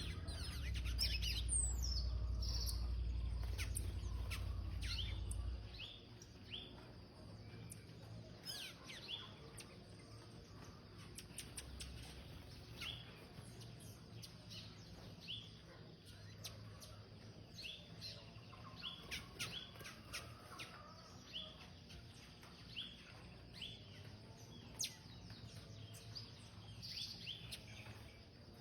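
Small birds chirping, many short high chirps coming at irregular intervals. A low rumble runs under the first six seconds, then stops.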